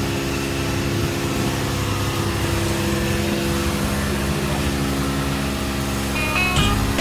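Boat engine running steadily at a constant pitch. Music with a beat comes in near the end.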